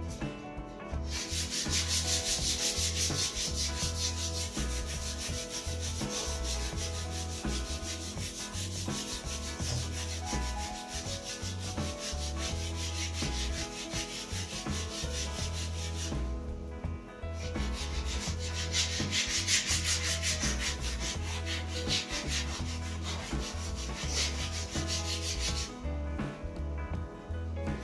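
Sandpaper rubbing along a new wooden snooker cue shaft in steady rapid strokes, with two short pauses, about two-thirds of the way through and near the end.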